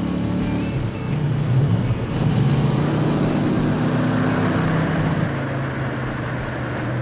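De Tomaso Pantera Gr.3 race car's Ford V8 running on the road, its engine note stepping down in pitch about a second in, getting louder for a couple of seconds, then holding steady.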